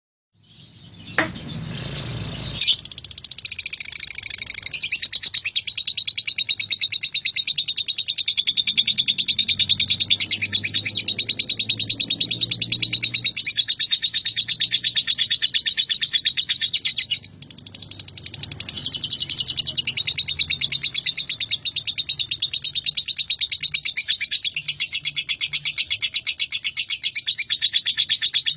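Male lovebird singing its 'ngekek': a long, rapid, high-pitched chattering song that runs on without pause except for a break of about a second just past the middle. Two sharp knocks are heard in the first few seconds, before the song begins.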